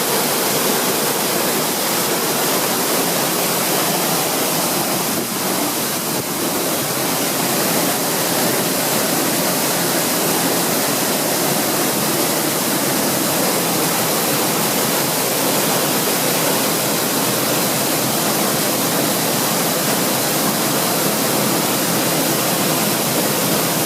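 Waterfall's steady rushing noise of falling water.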